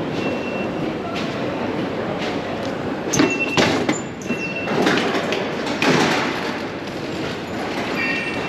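London Underground train running, heard from inside the carriage: a steady rumble with sharp clatters between about three and six seconds in and a few short high-pitched squeals.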